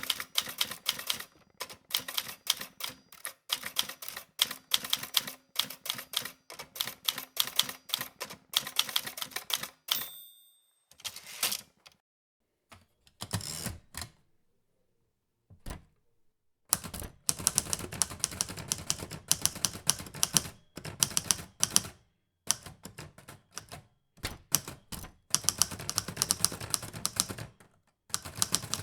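Typing on a Brother typewriter in fast runs of sharp keystrokes, with a short ring about ten seconds in. After a pause of about two seconds, typing resumes on a Hermes Baby Travel portable typewriter in steady runs of key strikes.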